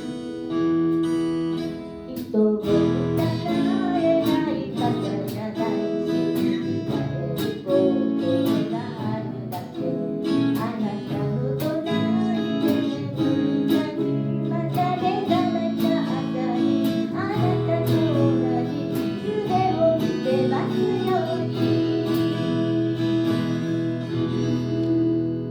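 Acoustic guitar strumming chords while a voice sings a melody over it.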